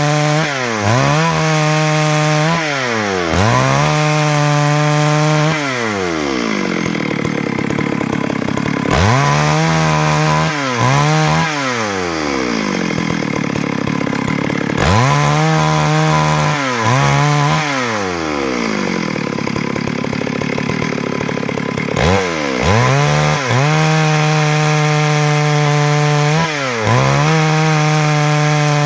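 Stihl MS 382 chainsaw cutting wood lengthwise to rip boards. The engine runs at high revs, and its pitch drops and climbs back every second or two as the throttle is eased and squeezed again. A few longer stretches run at a lower, rougher pitch as the chain pulls through the wood.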